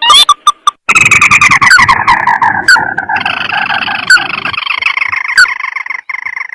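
Recorded lure call of a paddy-field crake ('tikusan sawah'): a few sharp rising chirps, then about a second in a long trill that slides down in pitch and runs on as a steadier trill, with sharp single notes cutting through it, until it stops near the end.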